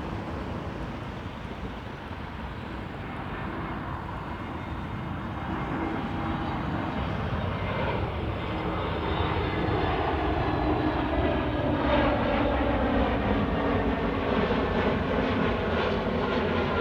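Airbus A320neo jet engines at high thrust during a go-around, growing steadily louder as the airliner approaches, with a whine that falls in pitch about halfway through as it passes.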